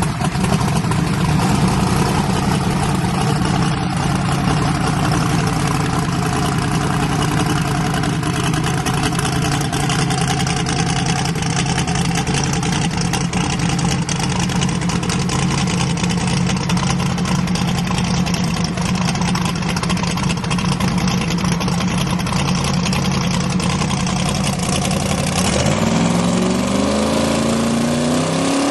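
Drag race car engine idling loudly with a steady low rumble, then climbing steadily in pitch over the last few seconds as it accelerates.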